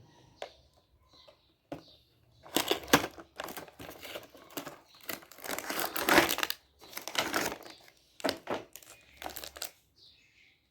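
Toy packaging being opened by hand: irregular crinkling and tearing in a run of rustling bursts, starting about two and a half seconds in and stopping shortly before the end.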